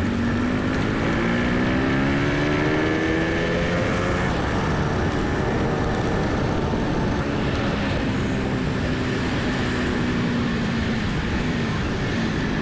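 Motorcycle engine accelerating, its pitch rising over the first four seconds, then running at a steadier, lower pitch, over constant road and wind rush.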